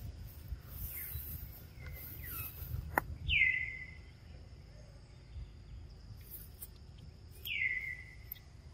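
A bird calls twice, about four seconds apart, each call a short note sliding down in pitch. A steady high insect drone runs underneath.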